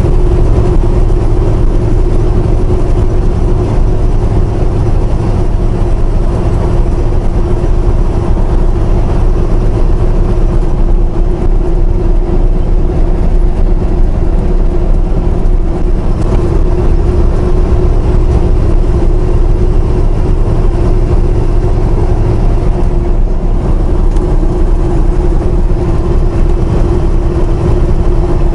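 Semi-truck running at steady speed, heard from inside the cab: an even engine and road rumble with a constant droning tone over it.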